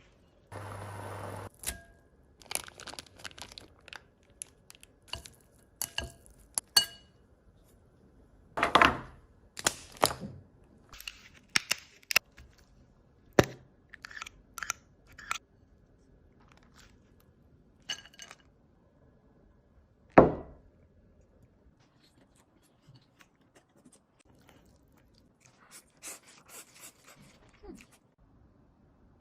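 Crab shell being cracked, snapped and torn apart by hand, with crunching and chewing: scattered sharp cracks, the loudest a snap about twenty seconds in.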